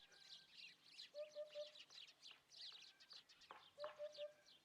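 Hoopoe calling its soft three-note 'oop-oop-oop' song, twice, faint, over quick high chirping of small birds.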